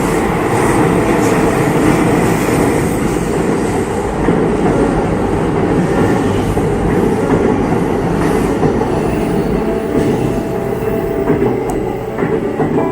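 A JR Yamanote Line electric commuter train passing close by at the level crossing, a loud, steady rumble of wheels on rails.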